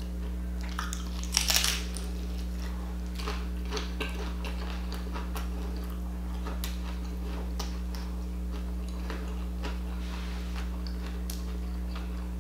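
Close-up chewing of a crunchy fried taco, with scattered crackly crunches over a steady low hum; the loudest crunch comes about one and a half seconds in.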